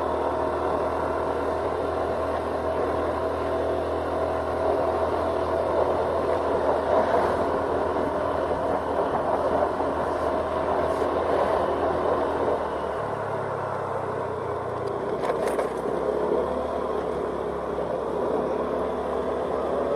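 Honda Scoopy scooter riding along a road: its small engine runs steadily under the wind and road noise, with the engine note changing about thirteen seconds in and a brief clatter a couple of seconds later.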